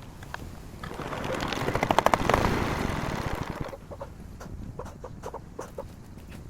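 Old Daedong power tiller's single-cylinder diesel engine being cranked: a rapid run of beats builds over about a second, peaks and dies away about three seconds later, as the engine turns over and stops without keeping running. Chickens cluck afterwards.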